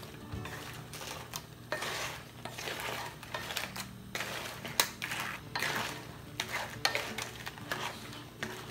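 A utensil stirring and scraping food in a cooking pan, with sharp clinks of metal on the pan, the sharpest about five seconds in.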